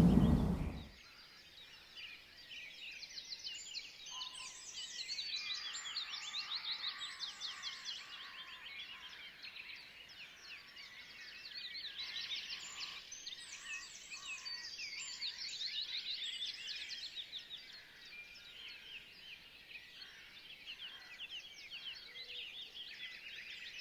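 Woodland birds singing: fast, high chirping trills that come in two longer bouts, with quieter stretches between.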